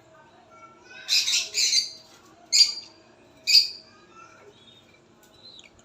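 Cockatiel calling: four short, loud calls, two close together about a second in, then two more single calls about a second apart.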